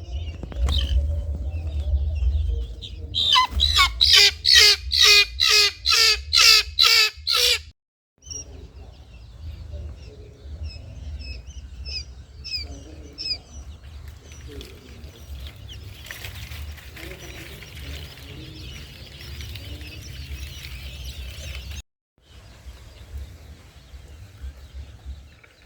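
A bird calls loudly about nine times in quick, even succession, roughly two calls a second, then stops. Fainter chirping follows, over a steady low rumble.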